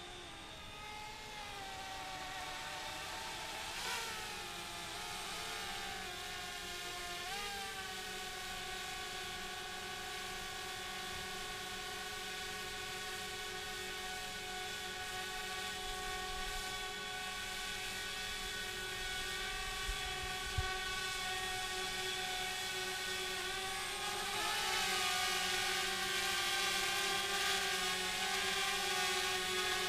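DJI Spark quadcopter's propellers whining steadily as it hovers. The pitch dips and recovers about four seconds in, again near eight seconds, and about twenty-five seconds in, growing a little louder near the end.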